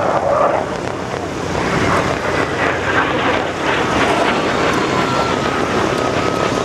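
Airplane engine running, mixed with wind noise on the microphone; a thin steady whine comes in about four seconds in.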